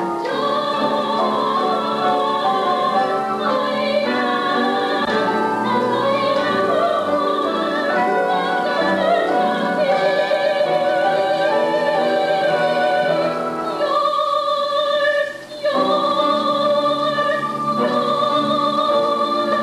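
Stage-musical singing with vibrato, held notes over instrumental accompaniment, breaking off briefly about fifteen seconds in.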